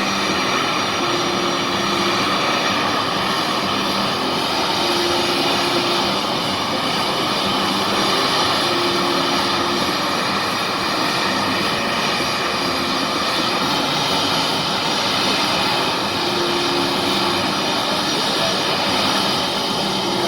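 Aircraft engine noise, loud and steady, with no rise or fall.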